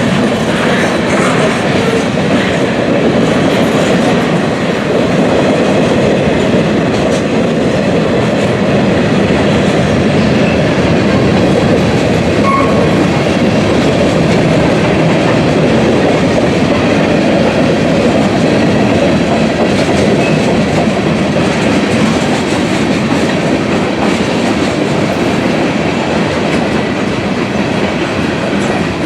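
Freight train cars rolling past, a loud, steady noise of steel wheels on the rails.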